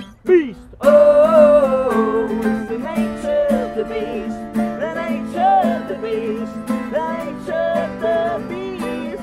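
Acoustic band music: strummed acoustic guitar under a sung melody without clear words. Just after the start the music breaks off briefly, with a falling slide, before coming back in full.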